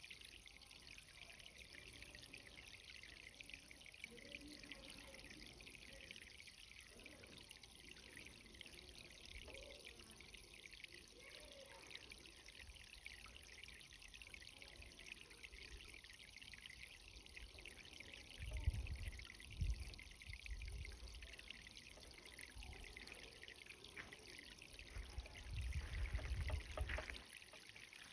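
Irrigation water trickling and pouring steadily among cherry tomato plants as the garden is watered. Twice, about two-thirds of the way in and again near the end, low rumbling bumps rise over it, the loudest sounds here.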